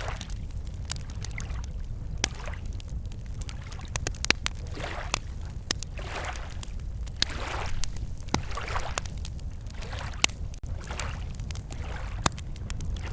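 Wood campfire crackling with sharp, irregular pops, while small waves lap against the shore every second or two.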